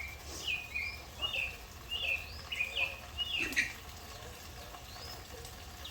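A small bird singing: a short whistled note that sweeps up, falls and steps down, repeated roughly every half second for about three and a half seconds, then one more arching note about five seconds in. A single short knock sounds about three and a half seconds in.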